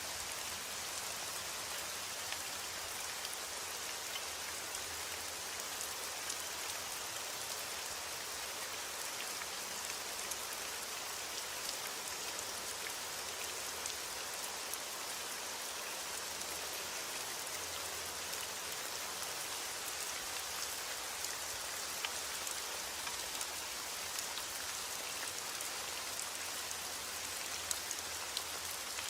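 Steady rain falling, an even hiss with scattered drop ticks; no thunder.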